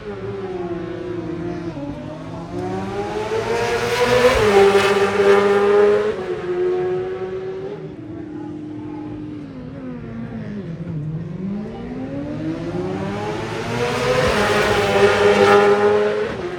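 Superbike and superstock racing motorcycles accelerating hard past, the engine note climbing in pitch through the revs with sudden drops at gear changes. There are two loud passes, about ten seconds apart.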